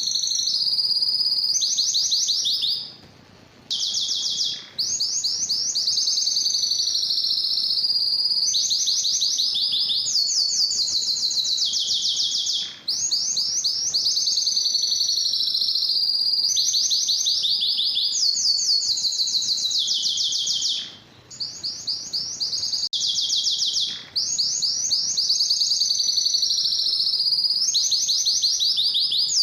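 Domestic canary singing a long, near-continuous song of fast trills, changing to a new phrase every second or two, with a few brief pauses.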